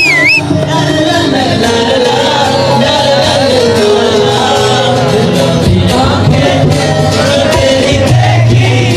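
Qawwali music: voices singing long, wavering held notes over a rhythmic accompaniment.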